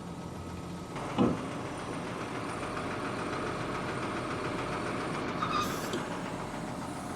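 Auger truck's engine running with its hydraulic PTO engaged as the outriggers are raised; the engine note loads up about a second in and then runs steadily. A short hiss sounds near the end.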